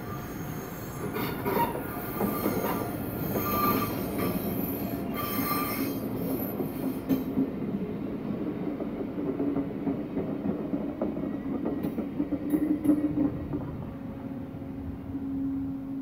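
Passenger train, an ÖBB class 2016 diesel locomotive with Cityshuttle coaches, rolling into the station. The wheels squeal and hiss for the first several seconds, then a steady low hum takes over, with a few clicks about twelve seconds in.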